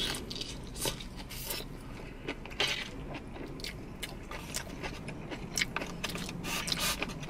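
Close-miked eating sounds: chewing and crunching of fried chicken wings and noodles, a string of irregular wet clicks, with a plastic spoon scraping in a foam bowl. A faint low hum sits underneath.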